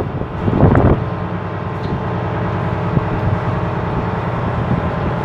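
A ship's engine running at a steady, even hum, after a short burst of noise in the first second.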